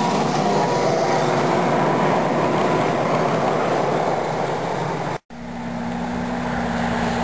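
Backyard ride-on train running along its track, a steady rushing rumble. It cuts off abruptly about five seconds in, and a steady low hum follows.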